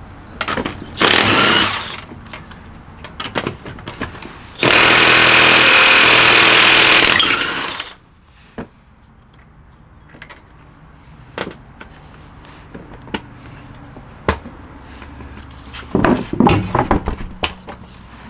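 Tools clicking and clattering, with a small power tool running steadily for about three seconds a few seconds in, then a burst of clattering near the end.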